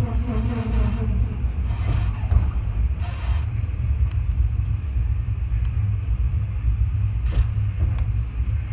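Steady low rumble of a Mugunghwa passenger train running on the rails, heard from inside the carriage, with two short clicks near the end.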